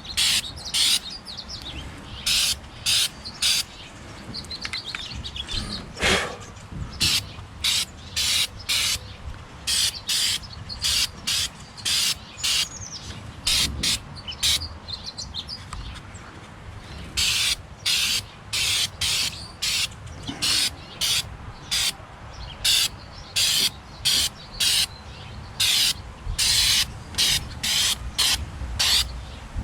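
Aerosol can of Flex Seal rubberized sealant sprayed in many short bursts, about one or two a second with a couple of brief pauses, worked along the seams of an aluminum boat. Birds chirp faintly in the background.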